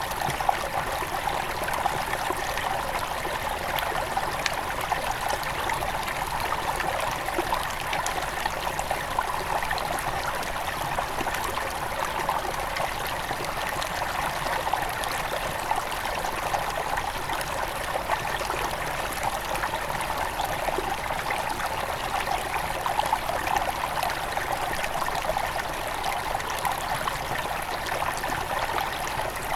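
Shallow forest stream at its headwaters, water flowing and splashing over stones in a steady, unbroken rush with fine trickling detail.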